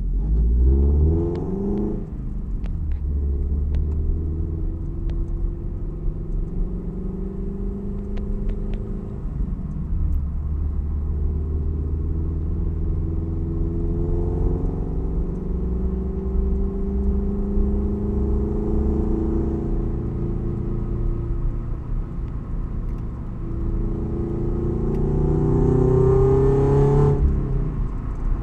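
Toyota 86's FA20 flat-four boxer engine with aftermarket unequal-length headers and exhaust, rumbling under way. The revs climb and drop about two seconds in, hold fairly steady through the middle, then rise again and fall away suddenly near the end as the throttle is lifted.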